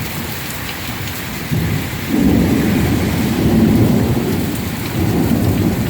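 Heavy rain falling steadily, with a long low rumble of thunder that starts about two seconds in and rolls on to near the end.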